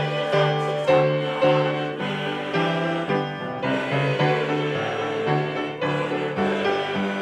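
Church choir singing a hymn with piano accompaniment, chords and notes struck in a steady beat.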